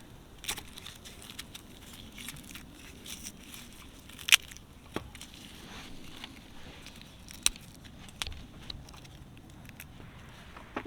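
Garlic being handled and prepared by hand: light crackling and rustling of the papery skin, with scattered sharp clicks, two of them louder.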